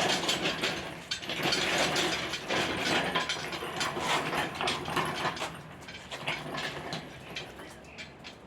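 Hand ratchet wrench clicking rapidly through many short strokes, working a fastener on an engine. It starts abruptly and thins out to scattered clicks near the end.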